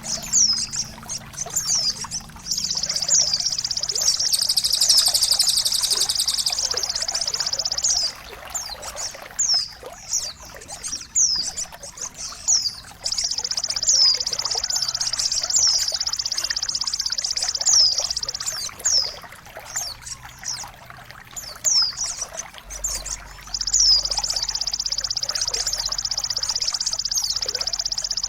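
Songbird calls for a birdsong-mastering track: short, high, falling chirps repeat throughout, and three times a long, high, rapid trill runs for about five seconds. Under them is a steady trickle of running water.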